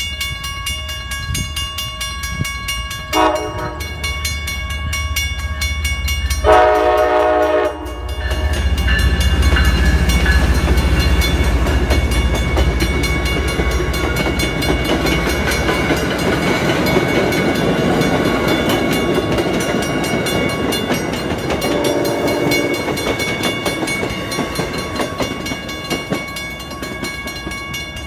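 MBTA commuter rail train sounding its horn for a grade crossing, a short blast about three seconds in and a longer one at about six and a half seconds, then rumbling through the crossing with its wheels and engine loud from about eight seconds on. The crossing's warning bell rings steadily throughout, and another horn blast sounds at about twenty-two seconds.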